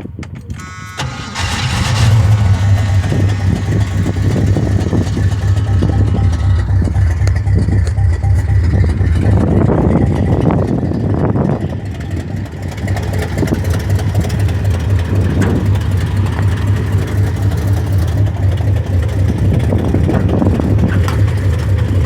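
A 1979 Pontiac Trans Am's V8 being started: a short crank, then the engine catches about two seconds in and runs steadily, dipping briefly about halfway through.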